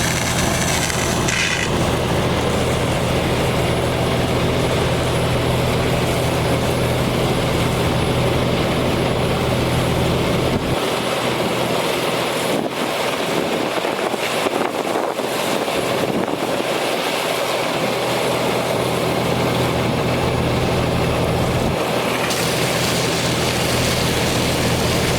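Water truck's diesel engine running at raised throttle to drive the PTO water pump for the hose reel, a steady hum with a broad hiss over it. The low engine note drops away for about ten seconds midway, then comes back.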